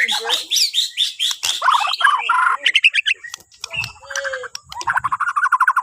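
White-rumped shama (Bornean murai batu) singing a fast, varied song of whistles and chirps, ending in a quick series of repeated notes.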